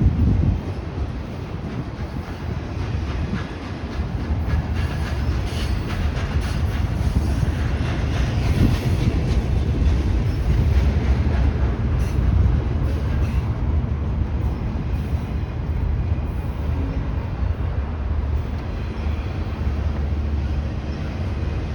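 A train rolling past: a continuous rumble of rail cars on the track, with a brief louder burst right at the start.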